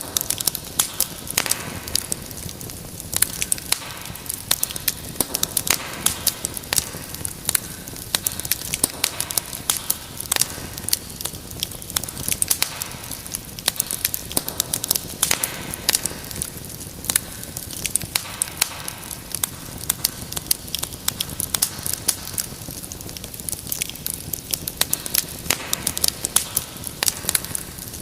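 Wood fire burning in a fireplace, with dense, irregular sharp crackles and pops over a steady hiss.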